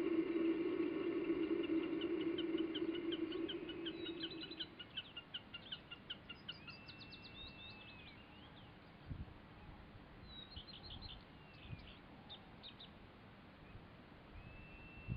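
Small songbirds singing outdoors: quick runs of short high chirps, with a longer level whistled note twice. During the first four seconds a steady low tone with overtones fades away beneath them.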